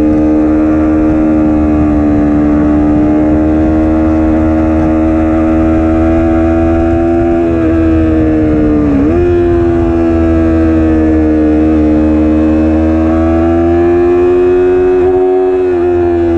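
Stock Yamaha R3's 321 cc parallel-twin engine running hard at high revs on track, heard from the rider's seat. Its steady note wavers up and down with the throttle, dips sharply about nine seconds in and picks straight back up.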